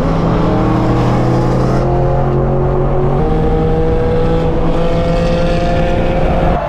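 Loud car engine and exhaust under acceleration, the note climbing slowly in pitch, with an abrupt step in pitch about three seconds in.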